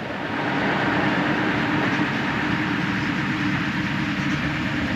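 Steady hum and air rush of an Airbus A320 cabin on the ground, from the air-conditioning and ground power. It steps up a little in level just after the start and then holds even.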